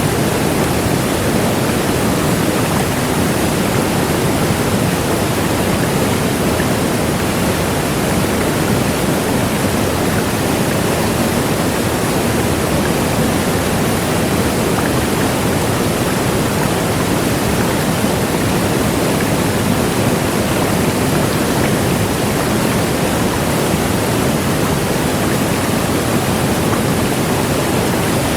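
A large waterfall, its water crashing down in a loud, steady, unbroken rush.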